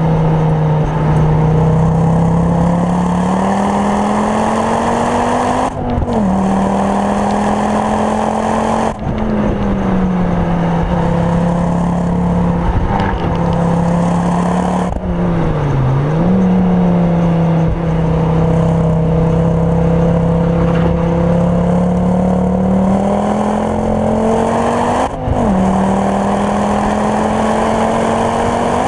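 Ford Focus RS Mk2's turbocharged 2.5-litre five-cylinder engine, tuned to about 420 bhp and breathing through a full Milltek exhaust, heard from inside the cabin while driven hard on track. Its pitch climbs slowly, then breaks off sharply about four times at gear changes, and once dips and comes back.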